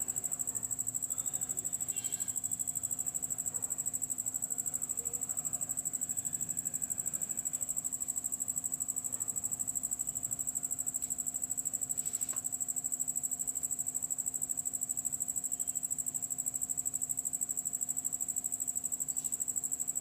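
A cricket trilling steadily at a high pitch, a fast even pulsing that never lets up. Beneath it runs a low steady hum, with a few faint taps.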